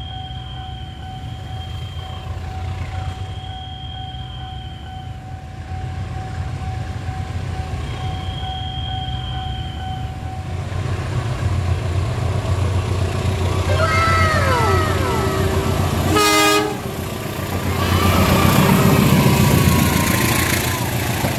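Diesel-hauled KAI parcel train approaching and passing: a low rumble that builds steadily, one short horn blast about sixteen seconds in, then the loud rumble of the green cargo vans going by near the end.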